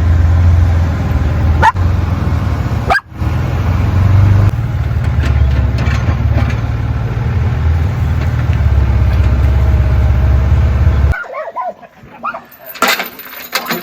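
A vehicle engine runs steadily with a deep rumble, then cuts off abruptly about eleven seconds in. Near the end a dog barks a few times.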